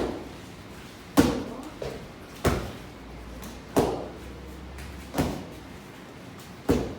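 Roundhouse kicks striking a karate kick mitt: six sharp smacks about one every 1.3 seconds, each with a short echo.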